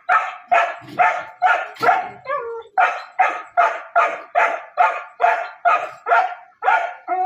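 A dog barking over and over, about two loud barks a second, with a short break a little over two seconds in.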